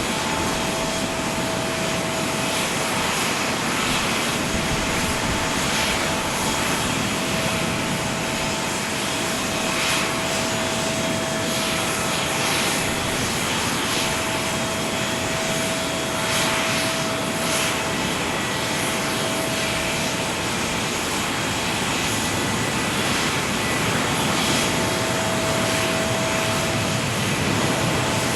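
Steady jet airliner engine noise on an airport apron, with a thin steady whine that drops out and comes back several times.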